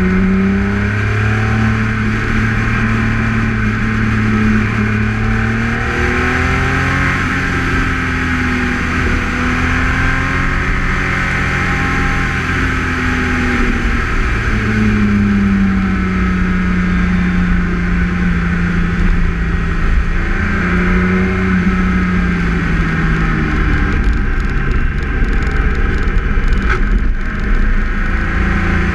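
BMW K1600 GTL Exclusive's inline-six engine running under way, its pitch rising and falling with the throttle and dropping clearly about halfway through. Steady wind and road noise sit underneath it at the low, fairing-mounted camera.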